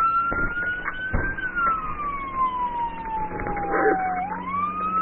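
Police car siren on a slow wail, climbing, then falling steadily for about three seconds and climbing again near the end, with two brief knocks in the first second or so.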